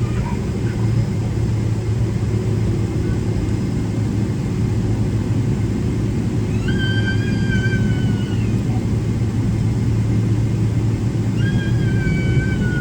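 Steady low rumble and hum inside the cabin of a Boeing 777-300ER taxiing with its GE90 engines at idle. Twice, near the middle and near the end, a faint high held tone lasts about a second and a half.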